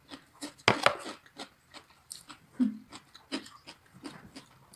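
Close-up crunching chews of a crisp white salad: irregular crisp crunches, the loudest about a second in.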